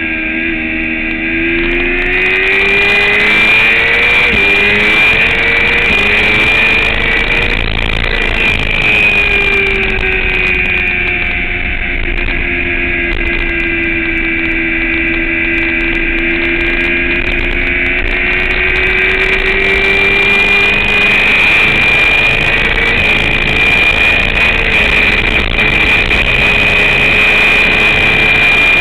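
Sport motorcycle engine at speed on a racetrack. Its note climbs with two quick upshifts about four and six seconds in, falls slowly as the bike slows for a corner, then rises again under acceleration, over a steady rushing noise.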